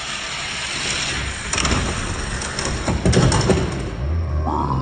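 Hot Wheels die-cast cars running down a plastic track: a rolling hiss that builds, with a run of clattering knocks from about one and a half to three and a half seconds in. A brief wavering tone comes near the end.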